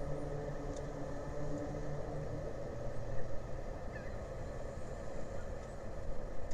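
Steady low engine rumble, with a humming tone that fades out about two seconds in.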